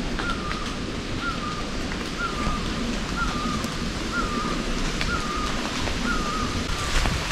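A bird calling over and over, one short, slightly wavering note about once a second, over a steady rushing background noise.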